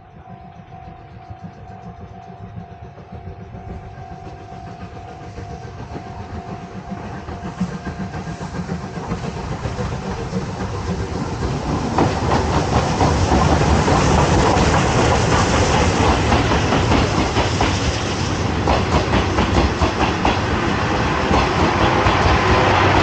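A train approaching on the rails and growing steadily louder, its wheels clattering over the track, loudest from about twelve seconds in.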